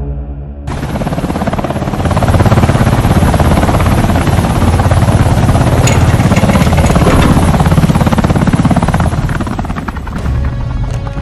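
Military helicopter's rotor blades beating in a fast, steady chop. The sound cuts in abruptly just under a second in and eases off a little near the end.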